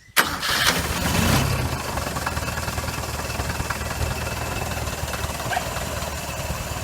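Toyota 4K four-cylinder pushrod engine starting, louder for its first second or so, then settling into a steady idle. Its valve clearances are freshly set, and the valve ticking is gone.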